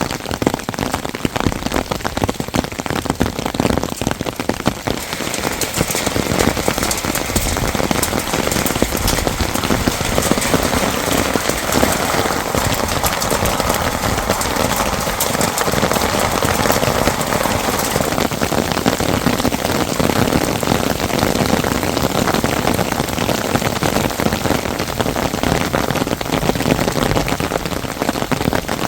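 Heavy rain falling steadily on a hard surface, a dense patter of countless drops.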